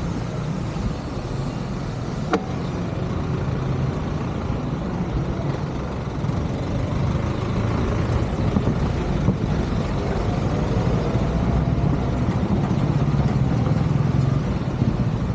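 Steady motor-vehicle rumble that grows a little louder toward the end, with one sharp click about two seconds in.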